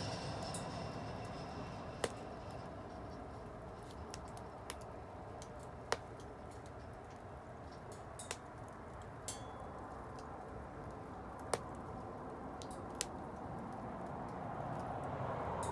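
Wood bonfire burning, with sharp crackling pops every few seconds over a steady low rumble.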